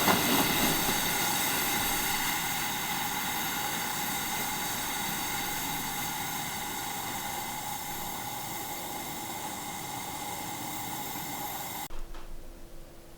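Pressurised gasoline burner of a 1947 Coleman 500 camp stove running with a steady hiss, slowly getting quieter. It cuts off abruptly about twelve seconds in, leaving a faint low hum.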